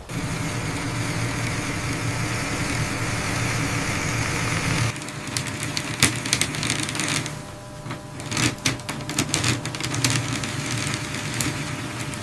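A steady mechanical whirr with a low hum for about five seconds, then a run of irregular sharp clicks and taps, like small tools working on metal track.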